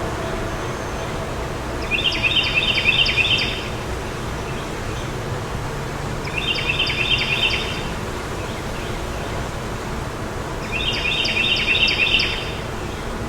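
A songbird repeats the same short, rapid trilled phrase three times, about every four seconds, over a steady background of wind noise.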